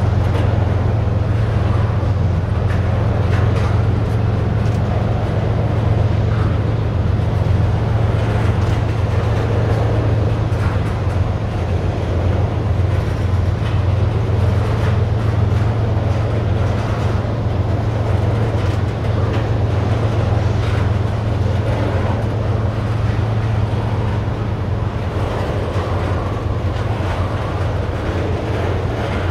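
Oil train's tank cars rolling past: a steady low rumble of steel wheels on rail, with light clicks as the wheels cross rail joints.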